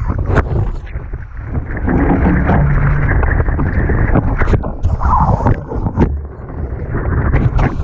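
Wind buffeting the camera microphone and water rushing past the hulls of a Tornado catamaran sailing fast in strong wind, with scattered short knocks and clicks.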